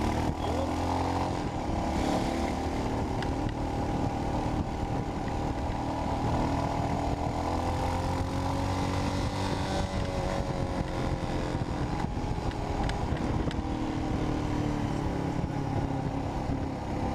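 A Royal Enfield Himalayan's single-cylinder engine running through a Red Rooster aftermarket exhaust on the road, its note rising and falling gently as speed changes, with wind rumble on the microphone.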